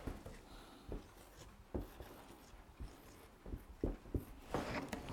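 Faint scratching of a pen writing, with a few light scattered taps.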